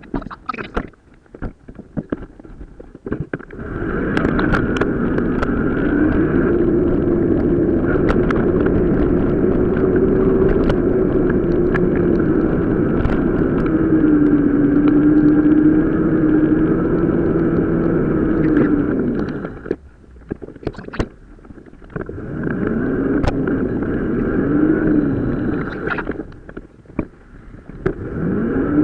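Riding noise from a mountain-bike ride played back at four to five times normal speed: a droning hum with a wavering pitch over a rumble and scattered clicks. It drops out sharply about two-thirds of the way in, returns, and dips again briefly near the end.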